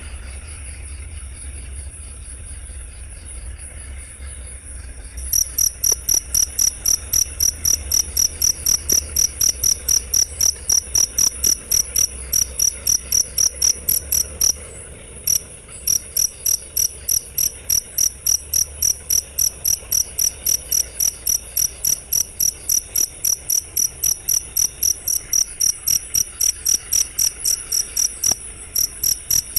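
Cricket chirping in a fast, even pulse of about four high chirps a second. For the first five seconds there is fainter, different pulsing before the loud chirping sets in, with a brief break near the middle.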